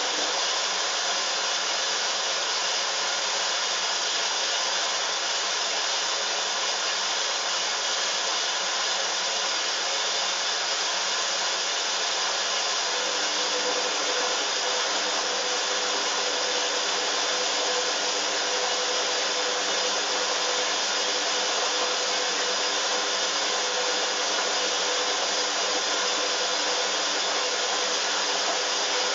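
Hoover washing machine on an intermediate spin: a steady whir of motor and drum with no let-up, and a steady tone that joins in about halfway.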